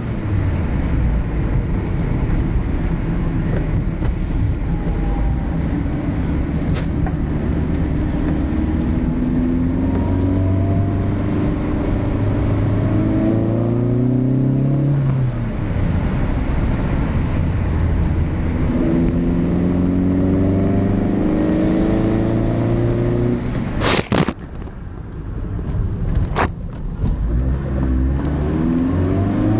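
Seat Ibiza 1.2 engine through an aftermarket sport exhaust muffler, accelerating repeatedly: the note climbs in pitch, then drops back at each gear change. Two sharp clicks come near the end.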